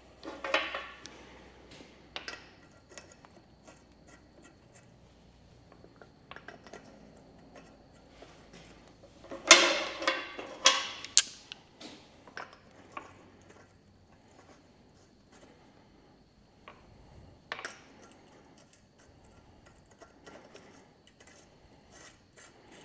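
Scattered metallic clanks, clinks and knocks of a wheel being fitted back onto the hub, with the loudest cluster of clanks about ten seconds in and another near the start.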